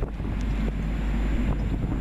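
A high-speed train running past on the fast line, a steady rumble and rush of air, with wind buffeting the microphone.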